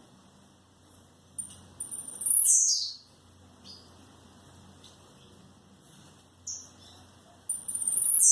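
A pet songbird singing: two loud phrases of very high notes, each ending in a quick downward sweep, with a few short single chirps between them.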